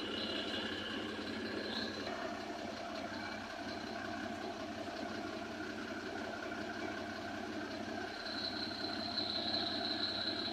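Truck engine idling: a steady hum with a faint high whine that grows a little stronger near the end.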